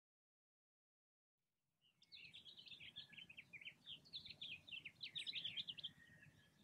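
Silence, then from about two seconds in a faint bird twittering: a quick, busy run of short high chirps and sweeps, with a faint low background noise beneath.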